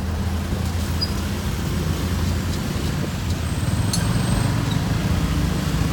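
Motorbike taxi's small engine running steadily during the ride, over road and traffic noise.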